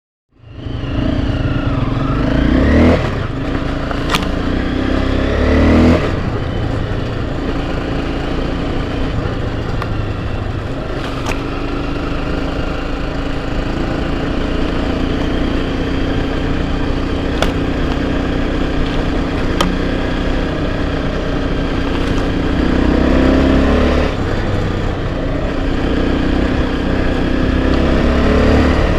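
Enduro motorcycle engine running while riding, revving up twice in the first six seconds, then holding a steady pace before picking up again near the end. A few sharp ticks sound over it.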